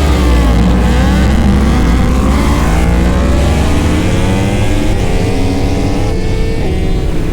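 Several superbike engines at high revs, their pitch climbing and dropping back again and again as the bikes accelerate and shift up.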